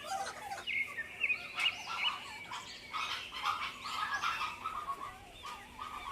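Small birds chirping and twittering continuously, many quick warbling calls overlapping.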